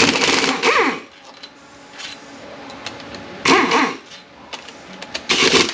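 A dog barking: a few short, loud barks in two or three bursts, with pauses between.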